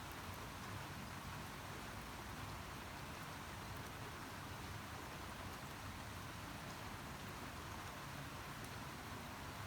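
Steady rain falling, an even hiss of drops with faint scattered patters.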